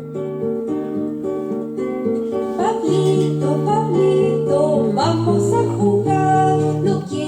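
Closing music played on acoustic guitar, strummed chords with plucked notes.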